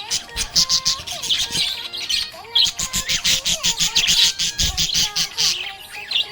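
Budgerigar chirping in fast runs of short, high chirps, with brief pauses between runs.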